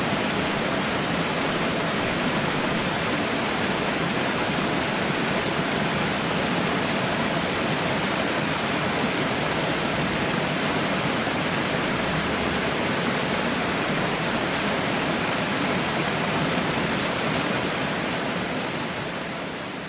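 Waterfall: a steady, dense rush of falling water that begins fading out near the end.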